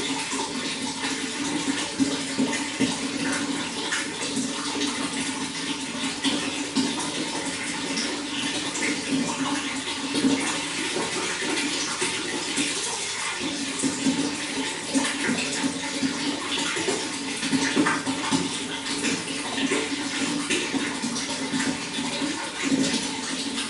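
Running water flowing and splashing steadily, with many small irregular splashes and gurgles.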